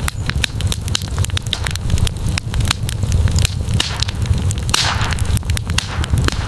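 Wood campfire crackling, with frequent sharp pops over a steady low rumble of the flames, and a short hiss just before five seconds in.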